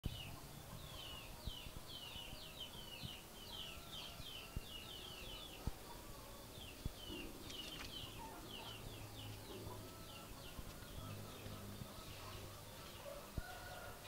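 Outdoor ambience with a small bird chirping: runs of short, high, down-slurred notes, several a second, with a pause of about a second near the middle. A few soft clicks stand out above it.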